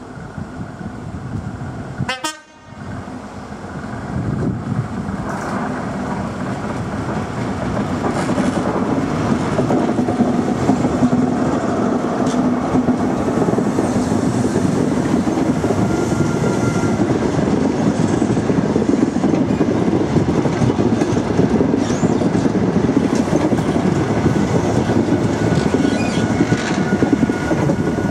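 InterCity 125 (Class 43 HST) passing close: the leading power car's diesel engine builds as it approaches, then the Mark 3 coaches roll by with a steady rumble of wheels on rail and clickety-clack over the joints. A short crackle and dropout about two seconds in.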